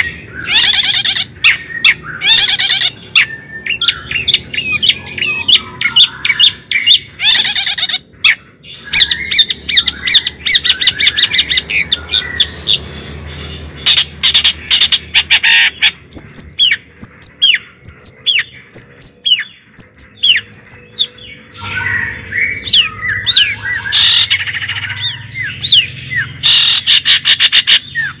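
Birds chirping and calling close by: many short, falling notes, some in quick rapid runs near the start and end.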